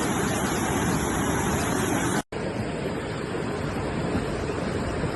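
Steady rushing noise of water, broken by a brief dead silence a little over two seconds in, after which a similar rushing noise continues.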